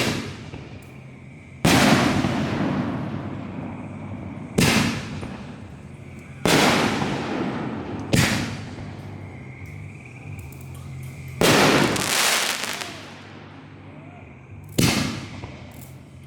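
Fireworks going off in a display: six loud bangs a few seconds apart, each trailing off slowly.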